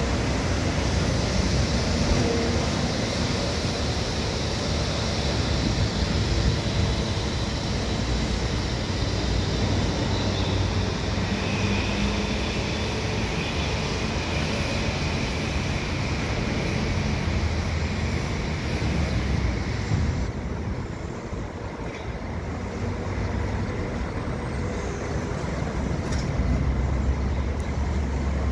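Kawasaki M9 electric commuter train running away along the tracks, its wheels on the rails making a steady rumble and hiss that fades as it goes, mixed with city traffic noise. A thin high whine holds for several seconds midway, and about twenty seconds in the upper hiss drops away.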